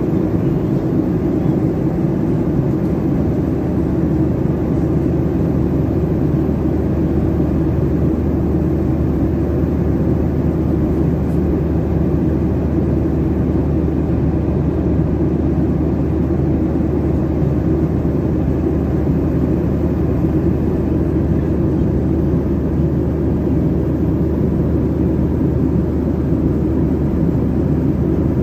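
Steady cabin noise of a Boeing 737-800 in flight: an even rumble of the jet engines and rushing air, with a constant low hum underneath.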